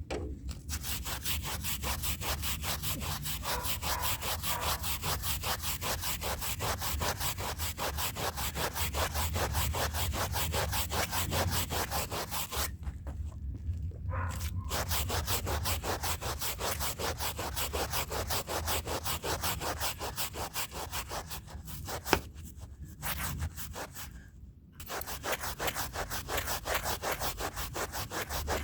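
A stiff hand brush scrubbing a rug's fibres in fast, even back-and-forth strokes. The strokes pause briefly about halfway through and twice more near the end, with a single sharp click in between.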